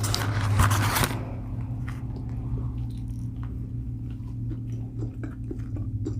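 A bite into a crispy fried chicken sandwich, with crunching for about the first second, then close-up chewing with small wet mouth clicks.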